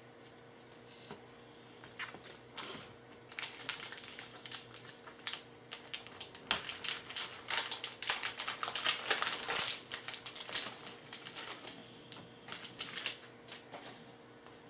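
Trading cards and a foil card pack being handled at close range: crinkling wrapper and quick clicking and flicking of card stock, busiest through the middle.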